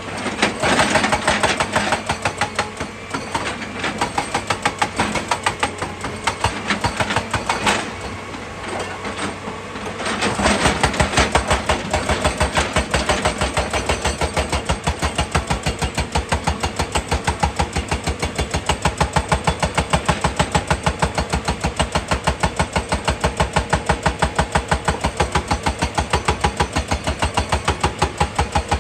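Excavator's diesel engine running with a regular pulsing beat. Around ten seconds in it gets louder and deeper and stays that way.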